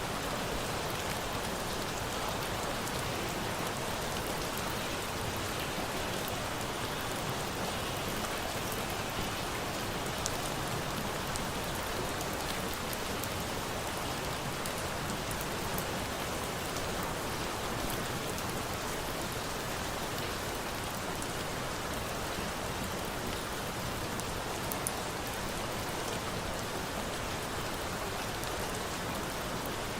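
Steady rain, an even hiss of drops falling on a surface, with a few faint sharp ticks scattered through.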